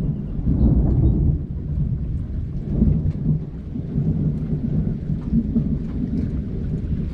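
Rolling thunder: a long, low rumble that swells and fades in waves, over steady rain.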